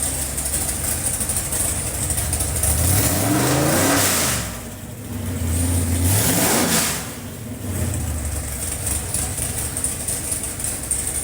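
582-cubic-inch carbureted big-block Chevy V8 on an engine dyno, running steadily and revved twice, about three and six seconds in, each rev rising and dropping back.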